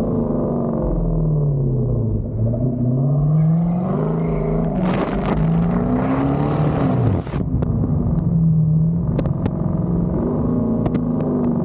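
Hyundai Genesis 5.0's 5.0-litre V8 exhaust heard from the back of the moving car, its note falling and rising as the car is driven. A harder pull from about five seconds in brings a loud rush over the top and ends with a sharp drop about seven seconds in. The engine climbs again near the end.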